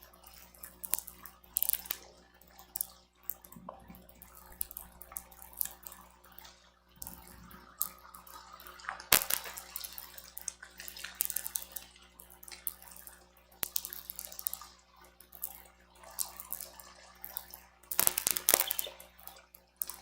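Rain and wind striking an outdoor nest camera's microphone: irregular crackling and spattering, heavier about a second and a half in, around nine seconds and near the end, over a faint steady low hum.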